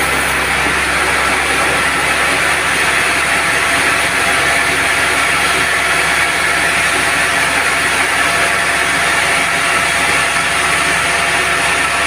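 Band sawmill running steadily, a loud even mechanical noise with a faint steady whine.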